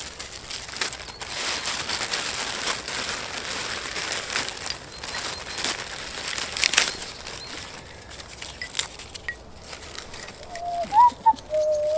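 Rustling and crinkling of dry fire-lighting material being handled and arranged, with a sharp click about seven seconds in.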